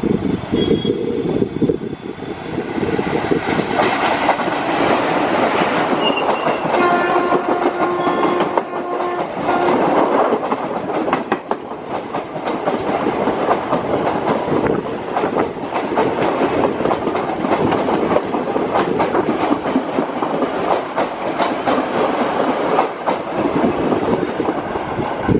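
Electric passenger train passing close by: a continuous heavy rumble with the clickety-clack of wheels over rail joints. The locomotive's horn sounds steadily for about three seconds, starting some seven seconds in.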